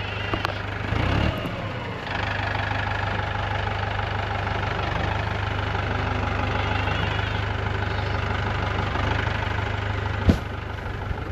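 Tractor engine idling steadily, with a single sharp click near the end.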